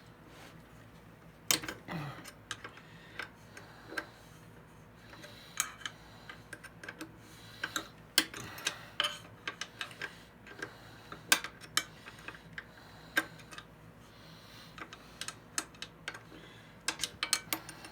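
Irregular sharp clicks and light metallic taps of hand tools and small parts on a thickness planer's cutterhead as the old blade is worked out, with a quick run of clicks near the end.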